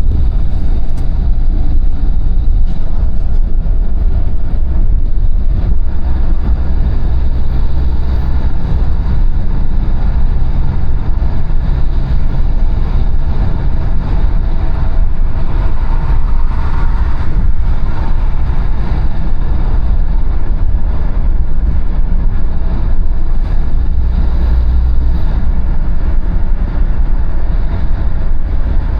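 Car driving at speed: a steady low rumble of engine and tyre noise.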